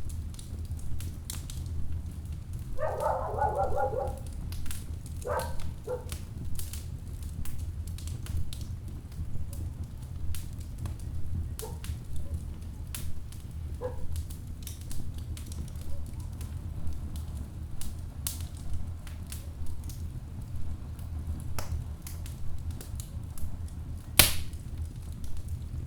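Wood fire burning in a fireplace, crackling with scattered sharp pops over a steady low rumble. A short squeal is heard about three seconds in, and a single loud pop comes near the end.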